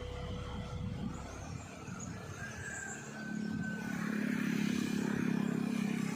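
A motor vehicle's engine running, its low hum swelling and growing louder about halfway through.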